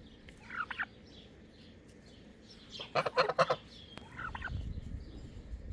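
Backyard poultry calling: a short call about half a second in, a louder run of rapid calls around three seconds in, and another short call just after four seconds, with a low rumble near the end.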